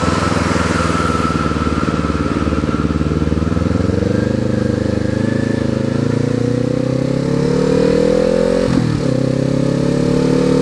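2019 Kawasaki Z400's parallel-twin engine under way, running steadily at first and then climbing in pitch as it accelerates. Near the end the revs drop sharply and pick up again at a gear change, then hold steady, with wind noise underneath.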